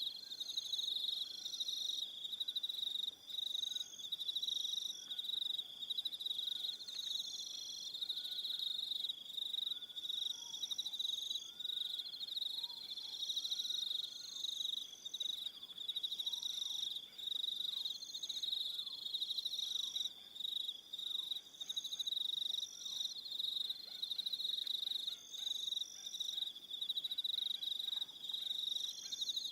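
Evening crickets chirping: a continuous high trill with other, higher insect calls pulsing on and off over it, and a few faint lower notes in the background.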